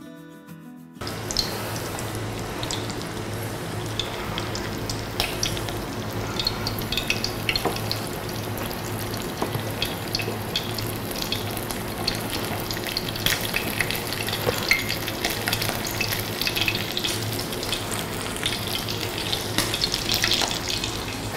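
A breaded piece of fresh cheese frying in hot oil in a frying pan: a steady sizzle with many small crackles and pops, starting about a second in.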